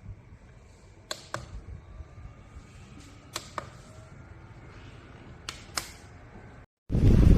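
Three pairs of sharp clicks about two seconds apart, each pair like a small button pressed and released, over a faint steady background. Near the end the sound drops out briefly, then a loud rush of air on the microphone starts suddenly.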